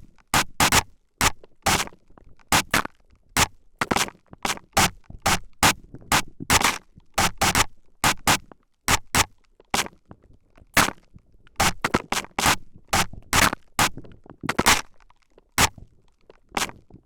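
Spray bottle spritzing liquid straight onto the microphone, in quick hissing sprays about two a second with short gaps between them.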